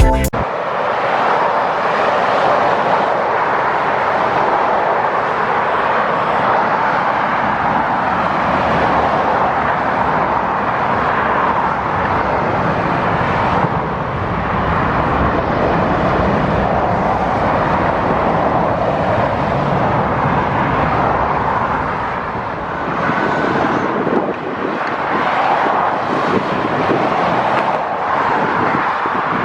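Steady road traffic noise: a continuous rush of tyres and engines, swelling and easing slightly, with a small dip about three-quarters of the way through.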